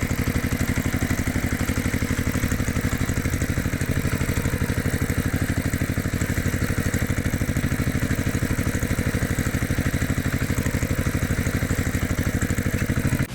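Tractor engine running steadily at an even chug, with a fast, regular beat and no change in speed.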